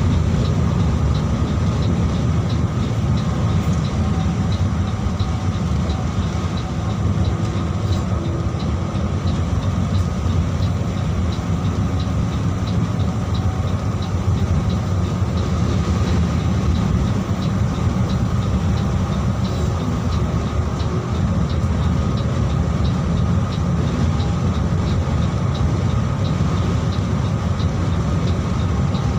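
Mercedes-Benz 1626 coach on the move: a steady low rumble of engine and road noise that holds even throughout.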